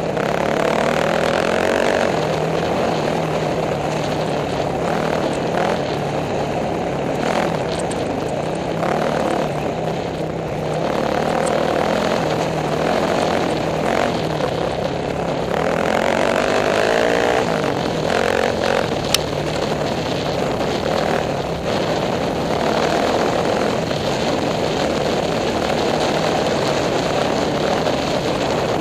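Off-road racing motorcycle engine running hard, heard from the rider's helmet camera, its note dipping and rising a little as the throttle is worked over rough desert ground. A single sharp click about two-thirds of the way through.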